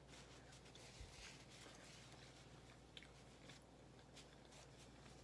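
Faint chewing of a mouthful of pizza, with small scattered mouth clicks, over a low steady hum.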